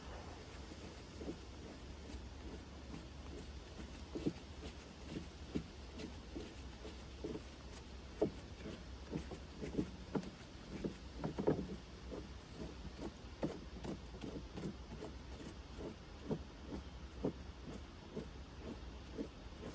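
Irregular light knocks, clinks and rubs of hand work on a sawmill's saw guides, over a steady low hum.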